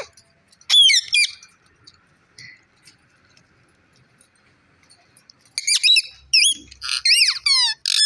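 Pet parrot squawking and whistling in sharp, rapidly gliding calls: a brief burst about a second in, then a dense run of calls in the last two and a half seconds, including a quick trill of repeated sweeps.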